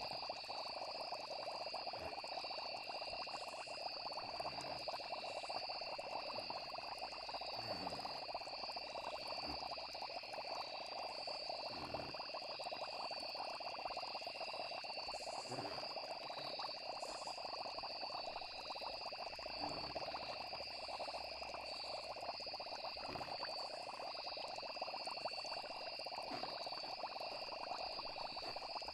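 Steady night chorus of frogs and insects chirping, with a few short low sounds at irregular intervals.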